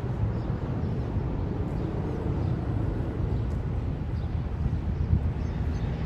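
Steady low rumble of a moving train, an even noise without distinct beats.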